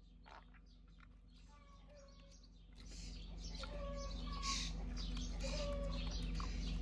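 Short, pitched bird chirps repeating about once a second over a low steady hum. About three seconds in, a louder rushing noise with crackles joins them and becomes the loudest sound.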